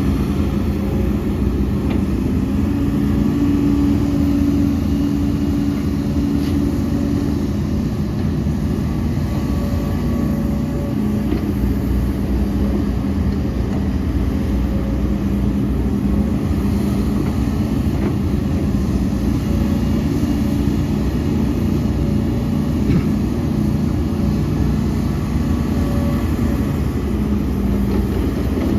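Heavy diesel earthmoving machinery running steadily, the engine note rising for a few seconds early on as it works under load.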